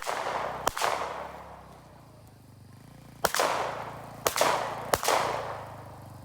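Handgun fired several times, each sharp crack followed by a long rolling echo: one shot at the very start, one just under a second in, then three quicker shots from about three to five seconds in. A low ATV engine hum runs underneath.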